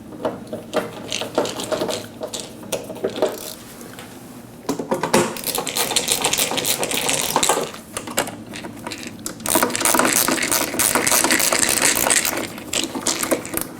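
Screws being driven into a dental sterilizer's casing with a screwdriver: a few scattered clicks, then two long runs of rapid clicking.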